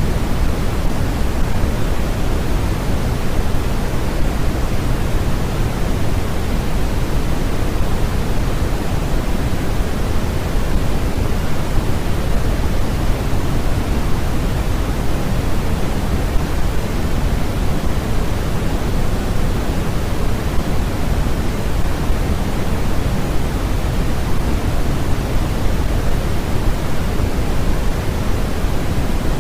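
Steady generated noise from a sleep and study noise track: an even, unchanging rushing hiss, heavier in the low end than in the highs.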